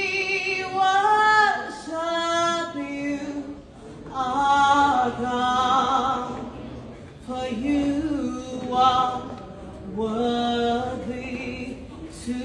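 Voices singing a gospel worship song without instruments, in long held phrases with short pauses between them.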